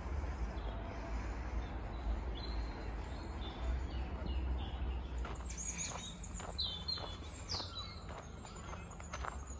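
Birds chirping and calling in quick short notes and falling whistles, busiest in the second half, over a steady low rumble.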